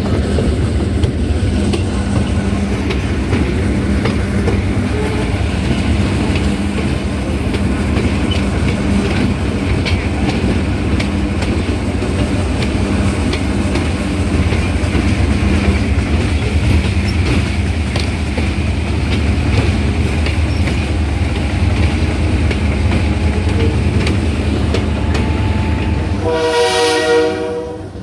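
Passenger train rolling along, a steady rumble with the clickety-clack of wheels over the rail joints. Near the end the rumble drops away and a locomotive horn sounds briefly.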